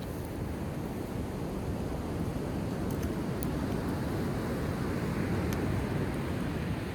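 Sea waves washing onto the shore, one slow swell building over about five seconds and easing off, with a few faint pops from a driftwood campfire.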